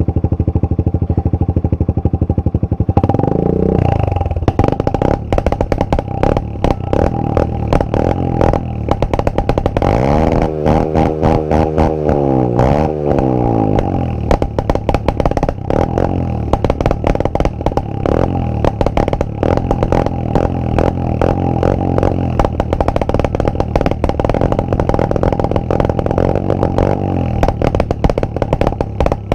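Honda CRF125F's single-cylinder four-stroke engine idling and being revved hard, rising in pitch and falling back about three seconds in and again around ten to fourteen seconds, with rapid popping backfires from the exhaust all through.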